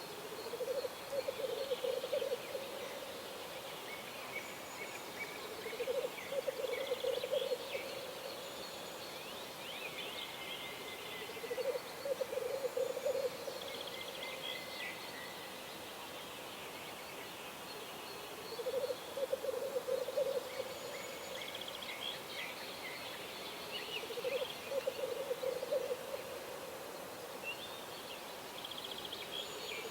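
Birds singing at dawn, with thin twittering and trilling phrases high above. A low, rapid, pulsing call of about a second and a half repeats roughly every six seconds, from an animal the material does not name.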